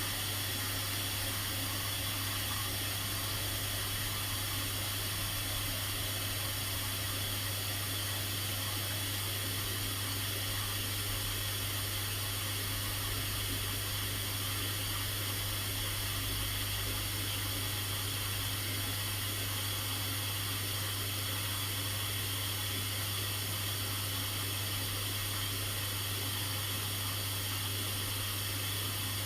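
Washing machine moving water, a steady low mains hum under a rush of water. It cuts in and out suddenly, as a drain pump or fill valve does.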